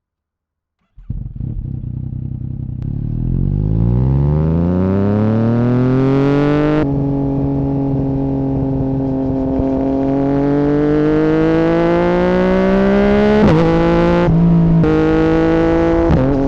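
Exhaust of a 2017 Yamaha MT-09's three-cylinder engine through an Akrapovic Racing Line carbon full exhaust with the dB killer removed, pulling away about a second in. Its pitch rises steadily, then drops sharply at an upshift. It climbs again more slowly, with two brief breaks for shifts near the end.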